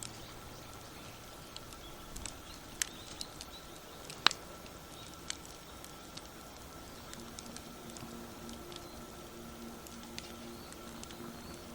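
Wood campfire crackling, with irregular small pops and one sharp, louder pop about four seconds in.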